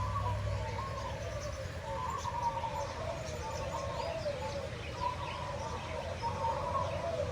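Many aviary birds calling at once: a continuous wavering chorus of mid-pitched calls with scattered short high chirps over it.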